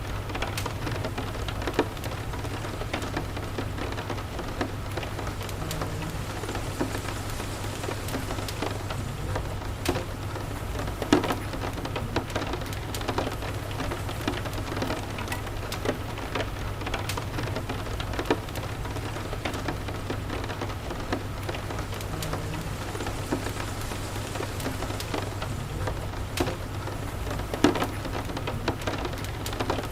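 Steady rain with scattered sharp pops and crackles from a fireplace wood fire over a steady low rumble; two louder pops stand out, about eleven seconds in and near the end.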